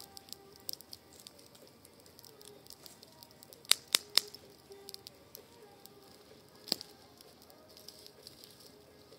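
Wood fire of garden shrub cuttings burning in a fire bowl, crackling, with three sharp pops in quick succession about four seconds in and another a few seconds later.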